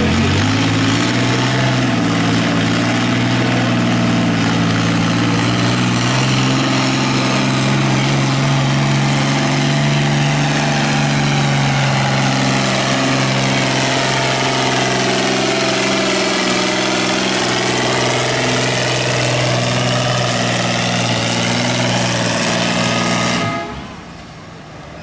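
Pulling tractor engine at full throttle during a pull. It climbs in pitch at the start, holds a loud, steady drone, then drops off sharply about 23 seconds in as the throttle comes off.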